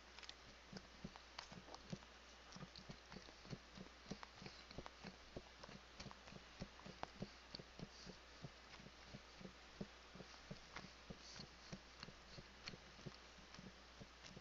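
Faint chewing of Domino's specialty chicken close to a headset microphone: an uneven run of soft clicks and thumps, about three or four a second.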